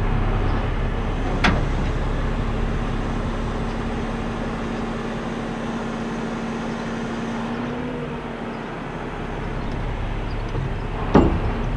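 Heavy tow truck running during a rear hook-up, with a steady hum that fades out about eight seconds in. There is a sharp knock about a second and a half in and another near the end.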